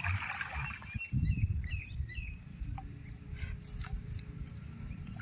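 Outdoor ambience of a low steady rumble, with a short burst of hiss at the start and a few brief high bird chirps about two seconds in.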